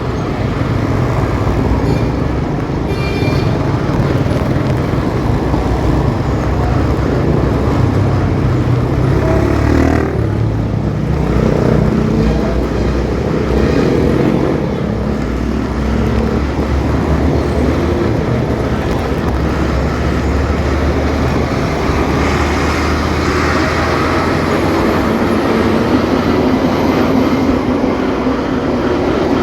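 Motorcycle engine running while riding through city traffic, its low note shifting up and down in steps as the bike speeds up and slows, over steady road and traffic noise.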